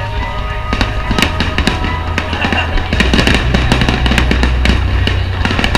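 Fireworks bursting overhead, a rapid string of sharp cracks and pops over a deep rumble, mixed with loud music.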